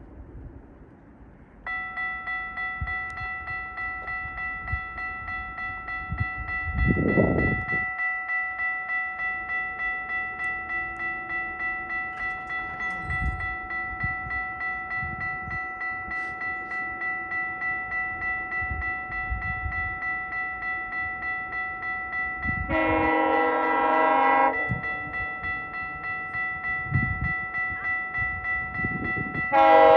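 A level-crossing warning bell starts about two seconds in and rings steadily at about two strokes a second. Late on, the horn of GO Transit cab car 379 sounds twice: one blast of about two seconds, then a second starting just before the end.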